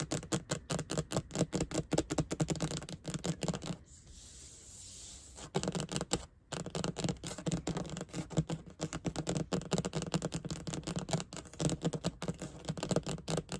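Fast ASMR tapping: a dense, rapid run of sharp clicks. About four seconds in it gives way for a second or so to a soft, hissy scratching, then the fast tapping resumes.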